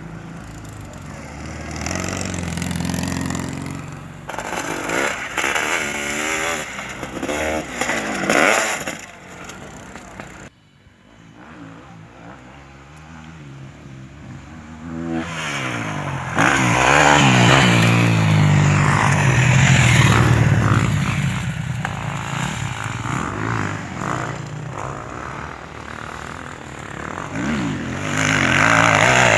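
Sidecar motorcycle engines running and revving, rising and falling in pitch as the outfits accelerate and pass. The loudness jumps sharply several times.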